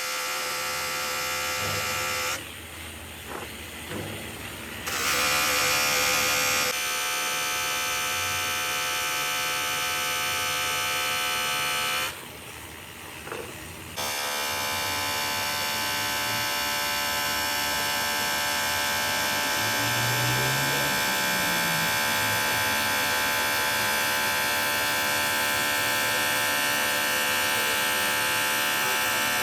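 Workshop machine's electric motor running with a steady buzzing hum. It drops away twice, a few seconds in and again about halfway, with abrupt changes between stretches.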